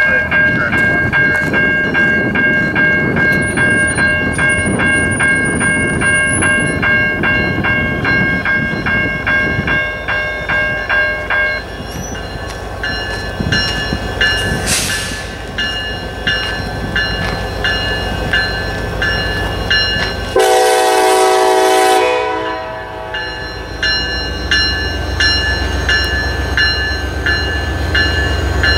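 Approaching freight train led by an EMD SD40-3 diesel locomotive: a bell rings about twice a second, the locomotive horn sounds one short blast about two-thirds of the way through, and the low diesel rumble grows louder near the end as the train nears.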